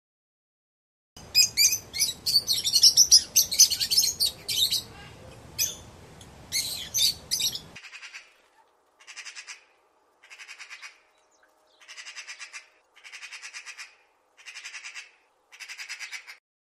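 Birds calling: about a second in, a dense stretch of loud, high squawks and chirps begins. After an abrupt change, a bird repeats a short, rapid, high trill seven times, about every second and a half.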